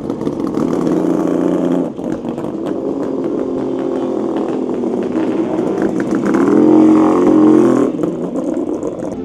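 Motorcycle engine running close by. It gets louder and higher around six to eight seconds in, then drops back.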